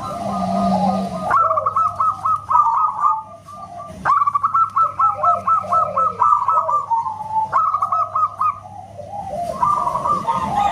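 Zebra doves (perkutut) cooing in rapid runs of short, clipped notes. The phrases start anew every two to three seconds and overlap one another.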